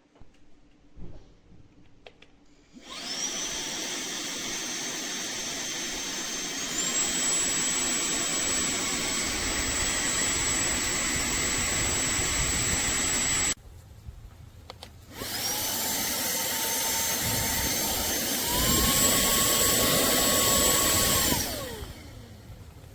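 TANYO cordless handheld vacuum cleaner run twice. Each time its motor spins up with a high whine, which steps up to a higher pitch a few seconds later as it goes from the lower to the higher of its two speeds. The first run cuts off suddenly; the second winds down.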